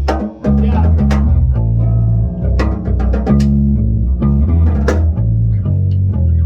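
Bass guitar and guitar playing a riff together, the low bass notes loudest and changing about every half second under sharp plucked guitar notes.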